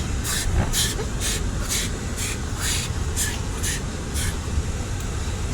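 A steady low rumble with a hiss that pulses about twice a second for roughly four seconds, then stops.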